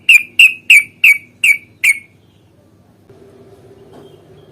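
Yellow-vented bulbul giving a run of six short, sharp call notes, about three a second, which stop about two seconds in.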